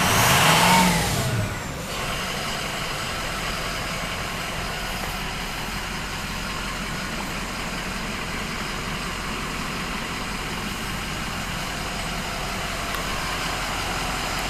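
2004 Ford Excursion's 6.0-litre turbo-diesel V8 given one quick rev, its pitch rising and falling, then settling about two seconds in to a steady idle.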